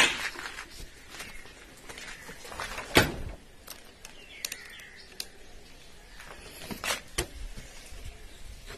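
Quiet background broken by a few scattered sharp knocks and clicks, the loudest about three seconds in and two more near the end, with a faint short chirp midway.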